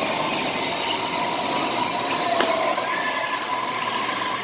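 Electric go-kart motors whining steadily over tyre and track noise, with a sharp click about halfway through.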